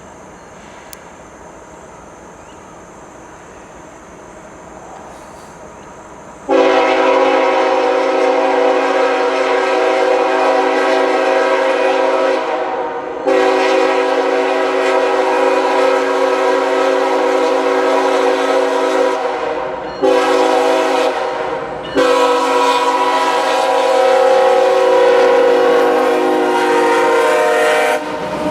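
Diesel freight locomotive's multi-chime air horn sounding the grade-crossing signal of two long blasts, one short and one long, loud and close. Before the horn, a faint steady rumble of the approaching train.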